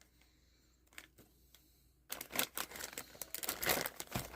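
Rustling and light clicking of small items being handled. It is nearly quiet at first, and the handling starts in earnest about two seconds in.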